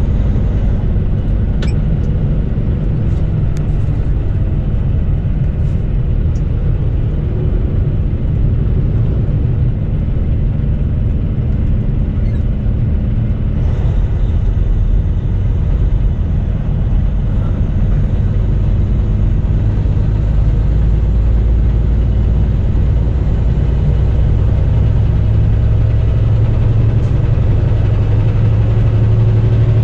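Steady low rumble of a semi truck's diesel engine and road noise, heard from inside the cab while it drives on the highway. It grows a little louder and deeper toward the end.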